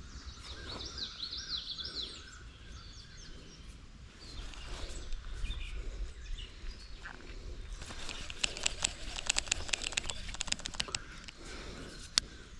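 Birds chirping over steady outdoor background rumble. Later a rapid run of sharp clicks lasts about three seconds, and one more sharp click comes near the end.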